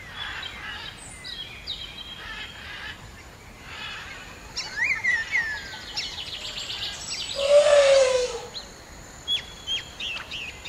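Wild birds chirping and calling in forest, several different calls overlapping, with a fast trill a little past the middle and a louder call sliding down in pitch about three-quarters of the way through.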